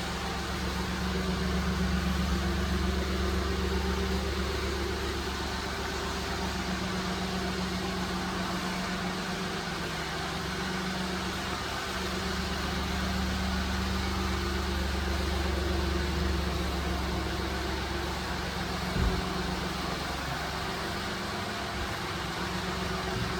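2000 Mitsubishi Minicab kei truck's small three-cylinder engine idling steadily, with one short knock about three-quarters of the way through.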